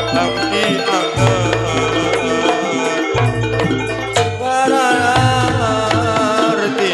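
Amplified campursari band music: a melody over hand-drum percussion and deep bass notes that change about every second or two.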